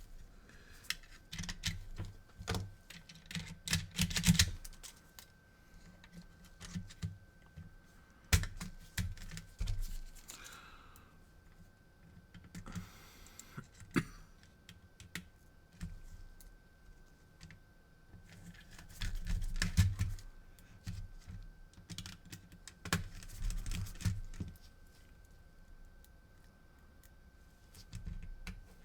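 Irregular small clicks, taps and rattles of a PS4 Blu-ray drive's plastic parts being handled, in scattered clusters with quiet gaps. A faint steady high-pitched whine runs underneath.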